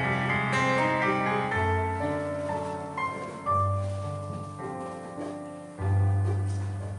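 Slow piano instrumental introduction to a hymn: a melody of single notes over held bass notes that change about every two seconds.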